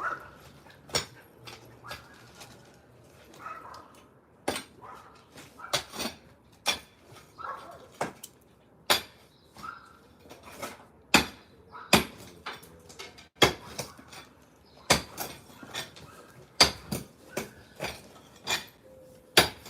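Hand tools striking and breaking concrete: sharp metallic clanks, about one a second at an irregular pace.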